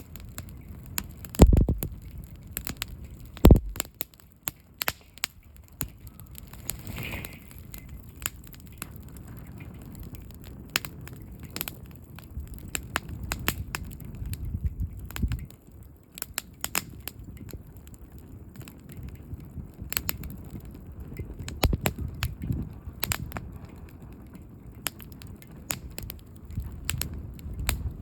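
Wood campfire crackling with frequent sharp pops over a low rumble of burning, with two heavier knocks early on. The stack has collapsed and the fire is burning down to embers.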